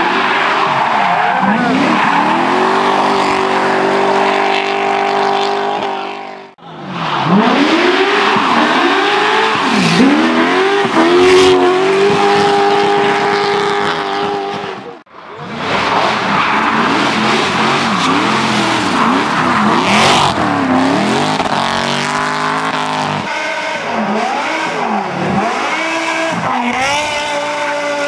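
Drift cars run hard on a tarmac hill course: engines rev up and down in quick swings, over the hiss of tyres skidding and squealing. The sound breaks off abruptly twice, about 6 and 15 seconds in, and picks up each time on another car's run.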